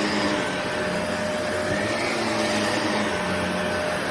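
Shark Navigator Lift-Away upright vacuum cleaner running steadily: an even rush of air with a constant motor whine.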